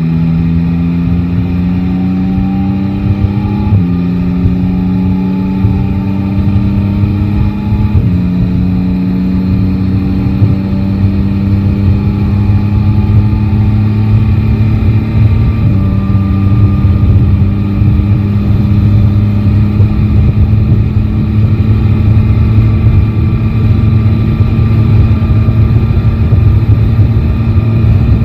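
Yamaha Tracer 9 GT's inline three-cylinder engine pulling away and accelerating, its pitch rising and then dropping at three upshifts, at about 4, 8 and 16 seconds in, before settling into a steady cruise.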